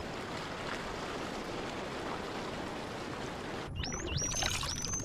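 Steady underwater rush of water. About three and a half seconds in, dolphins give several high whistles that glide up and down in pitch.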